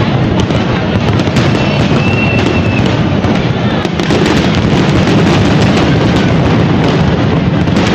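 Japanese aerial fireworks display: a dense, continuous crackling and banging of bursting shells, with a brief whistle about two seconds in.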